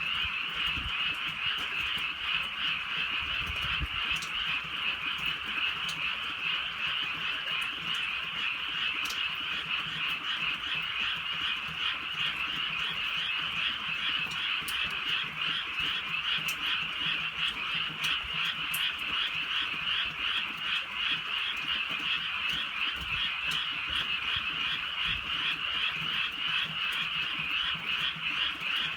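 A dense chorus of many frogs calling at night, a steady unbroken mass of rapid pulsed croaks, with a few faint clicks scattered over it.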